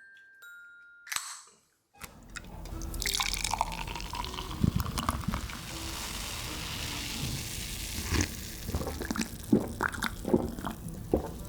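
A few fading chime notes, then a brief whoosh. About two seconds in, liquid starts pouring with a steady hiss for about six seconds. Scattered clicks and taps follow near the end.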